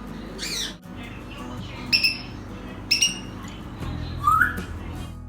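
African grey parrot giving three short, sharp whistled calls in imitation of other birds' calls, then a lower rising call near the end, over background music.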